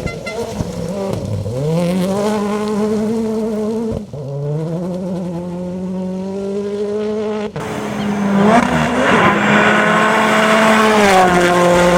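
Rally car engines accelerating hard and holding high revs. Three separate passes follow one another, each rising in pitch and then running steady, with abrupt breaks about four and seven and a half seconds in. The last one drops in pitch briefly near the end.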